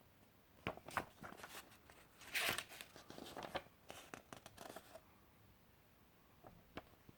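Paper pages of a booklet being handled and turned: a run of crisp rustles and crinkles, loudest about two and a half seconds in, then a couple of small clicks near the end.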